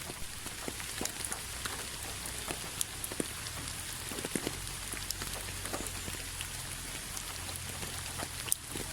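Steady rain falling: an even hiss dotted with many separate drops tapping close by, with one sharper drop near the end.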